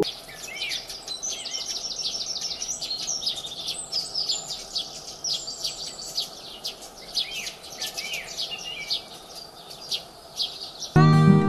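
Small birds chirping and twittering: a dense, unbroken run of short high notes over faint outdoor background noise. Plucked acoustic guitar music comes in loudly near the end.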